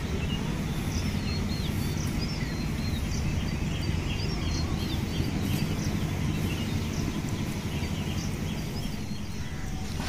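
Small birds chirping repeatedly, with short high chirps and quick wavering whistles, over a steady low rumble.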